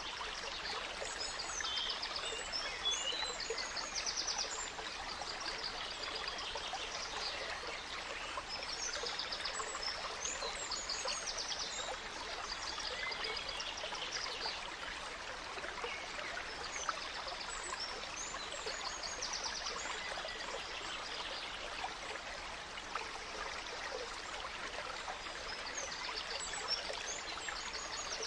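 Gentle stream babbling steadily, with several songbirds singing trilled and chirping phrases over the water, busiest in the first half.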